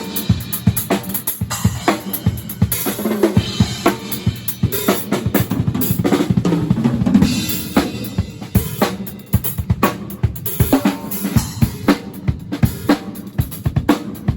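Drum kit solo: rapid snare and tom fills over bass drum strokes, with rimshots, hi-hat and cymbal crashes.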